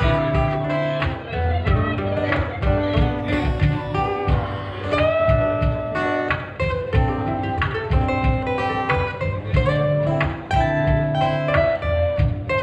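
Instrumental break of a live acoustic pop cover: acoustic guitar playing the melody and chords, with hand percussion keeping a steady beat underneath.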